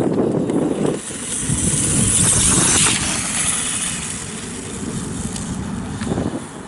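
Electric RC dirt bike running on the track, a noisy rush of motor and tyres that swells to a loud hiss about two seconds in, then eases off to a steadier run.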